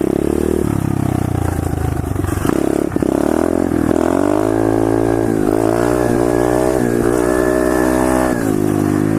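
A 125cc SSR pit bike's single-cylinder four-stroke engine, run at uneven lower revs, then revved up sharply about three seconds in and held high for several seconds for a warm-up wheelie, dropping back near the end.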